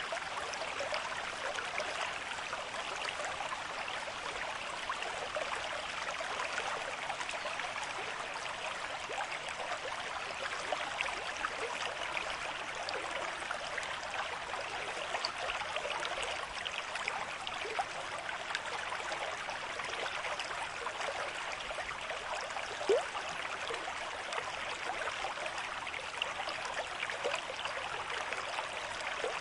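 River stream with moderate flow, water running steadily over its bed. There is one brief louder blip about three-quarters of the way through.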